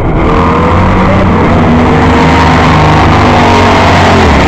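Several Baja race car engines running and revving together at different pitches during a heat race, loud, over a steady low rumble.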